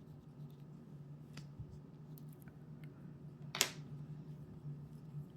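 Faint handling sounds of watercolour painting: soft scrapes and light clicks of brush and tools, with one sharp tap about three and a half seconds in, over a steady low hum.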